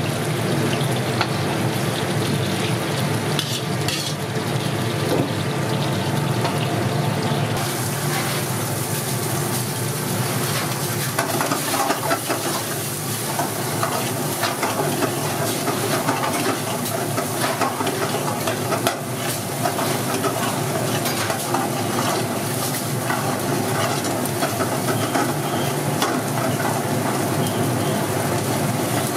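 Paneer pieces deep-frying in oil in a kadhai, stirred with a metal slotted spoon. About eight seconds in this gives way to chopped garlic and green chillies sizzling in a wok while a steel ladle stirs and scrapes the pan, with scattered clinks of metal on metal.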